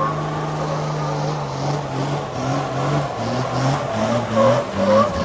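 Vehicle engine in a burnout, held at steady high revs, then revved up and down in short rising and falling steps from about a second and a half in.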